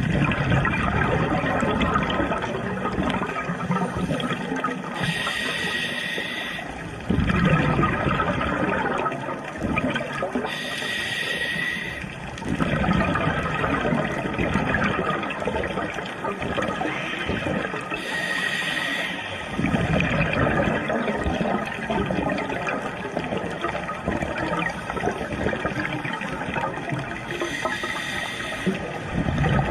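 Scuba diver breathing underwater through a regulator: a hissing breath with a faint whistle comes about every seven seconds, four times, and bubbling, gurgling exhalations fill the time between.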